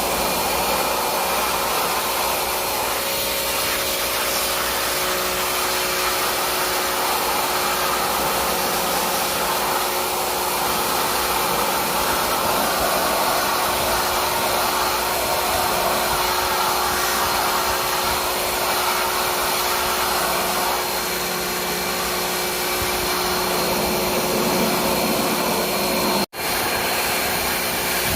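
Handheld electric air blower running steadily at full speed, blowing water off the cleaned AC parts. It drops out for an instant near the end.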